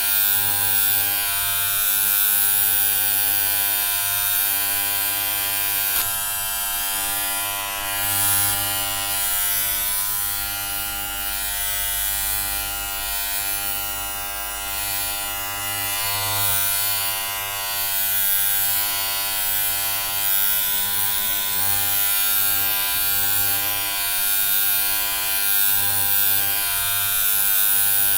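Electric hair clippers buzzing steadily, a continuous hum with a bright, hissy edge.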